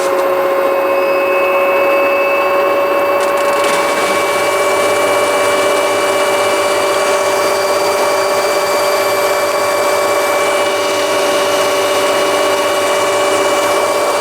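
LG washing machine spinning at high speed: a steady whine from the motor and drum over an even rushing noise, with no knocking, the drain hose no longer striking the cabinet.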